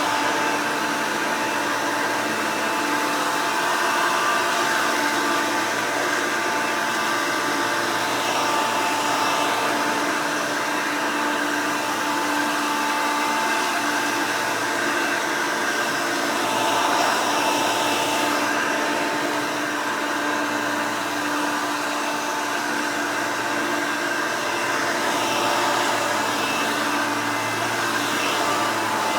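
Hoover Elite upright vacuum cleaner running steadily, its motor giving an even whine over a rushing of air.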